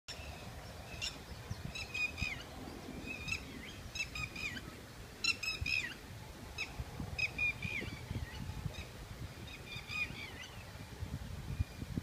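Birds calling: short, high calls with falling ends, in clusters of two to four, repeated about once a second and thinning out near the end, over a low rumble.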